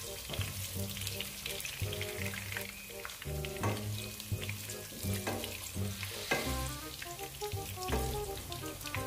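Beef meatballs frying in hot oil, a steady sizzle with small crackles, stirred now and then with tongs, over background music with a melody. The meatballs are browned and firm, close to done.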